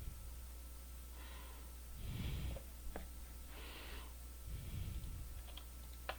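A person breathing close to the microphone, about four soft breaths in and out, with two sharp clicks from a computer mouse, one midway and one near the end.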